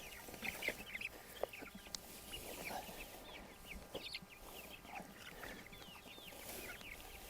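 Meat-bird chicks peeping, many small high chirps overlapping, with a few faint knocks.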